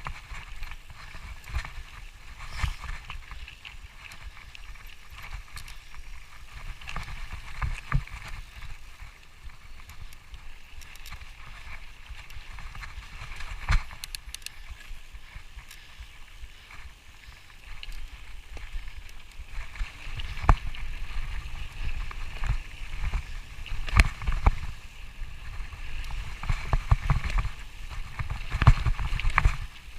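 Low rumbling noise on the microphone with many knocks and clicks, getting busier and louder over the last third.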